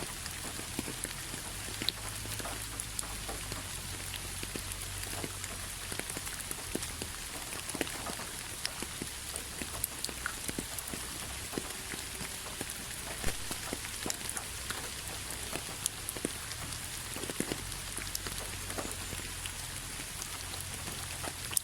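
Rain falling steadily: an even hiss with individual drops ticking sharply here and there.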